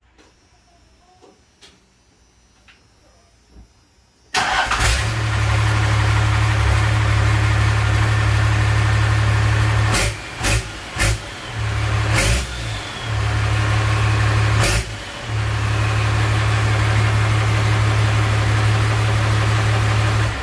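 The 5.9 Cummins turbo-diesel straight-six of a first-gen Dodge Ram W250 comes in suddenly about four seconds in, then runs loud and steady with a deep hum, broken by a few brief dips. Before it, only faint clicks.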